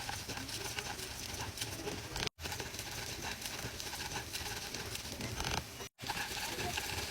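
Cooking sounds from preparing a taco dinner, in three short clips cut together, each a dense run of quick small clicks over a noisy hiss.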